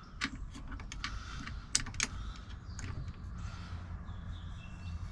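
A run of small, sharp clicks and taps from the parts of a Baldwin mortise lock and the hand tools being handled as the lock is screwed back together, the loudest pair about two seconds in, over a steady low hum.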